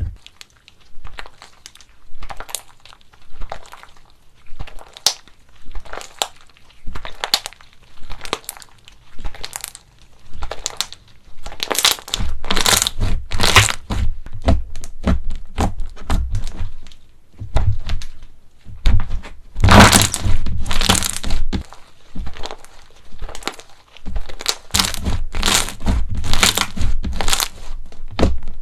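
Slime being pressed and squeezed by hand, crackling and crunching in a series of short bursts. The bursts come about once a second at first, then grow denser and louder from about halfway through.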